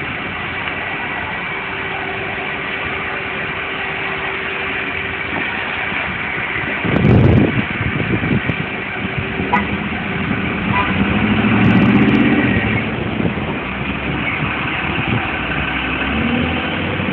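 Vehicle engine idling steadily, with a heavy low thump about seven seconds in and the engine rising in pitch and level briefly around twelve seconds.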